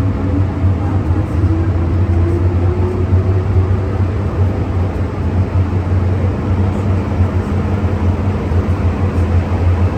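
MTR M-Train electric multiple unit running, heard from inside the carriage: steady loud rumble and hum, with the traction motors' whine rising in pitch over the first few seconds as the train gathers speed.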